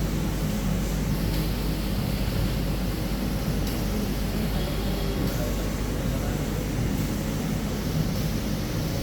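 Steady mechanical hum and hiss of running machinery, even and unbroken.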